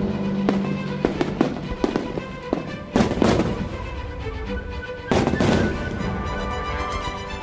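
Fireworks: a string of sharp cracks and pops with two big booming shell bursts, about three seconds in and about five seconds in, each trailing off in a long echo, over music played through loudspeakers.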